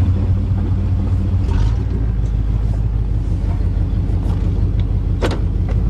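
Steady low engine and road rumble inside the cab of a 1988 Chevrolet pickup truck under way, with one brief sharp click about five seconds in.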